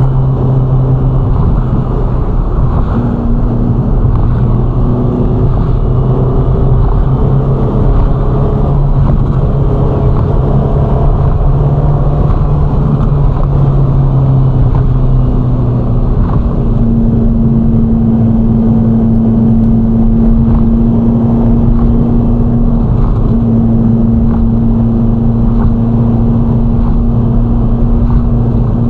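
Ferrari Roma's twin-turbocharged V8 running steadily at expressway cruising speed, a continuous engine drone whose pitch steps up about halfway through.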